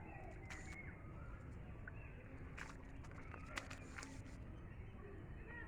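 Outdoor rural ambience: faint bird chirps over a low steady rumble, with a few sharp clicks.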